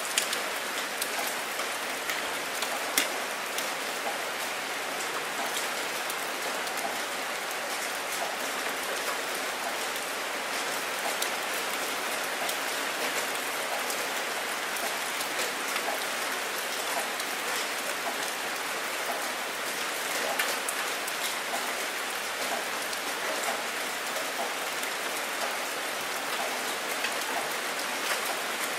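Steady rain falling on open water: a dense, even patter of countless drops, with a few sharper, louder drop hits standing out now and then.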